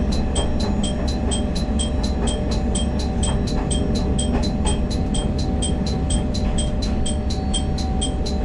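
Kumagawa Railway diesel railcar running slowly into a station: low engine rumble and track noise, with a sharp high ding repeating about twice a second over it.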